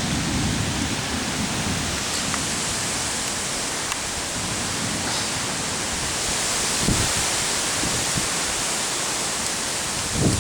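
Thunderstorm wind gusts blowing hard: a steady loud rushing noise, with low buffeting of wind on the microphone near the start and about seven seconds in.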